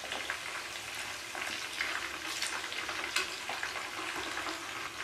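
Chicken drumsticks deep-frying in hot ghee, a steady sizzle with frequent small crackling pops.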